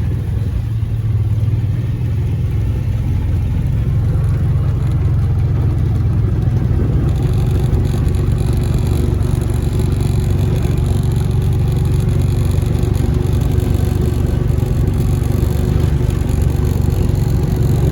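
A vehicle's engine running steadily as it drives along, a continuous low rumble; a steady higher hum joins in about seven seconds in.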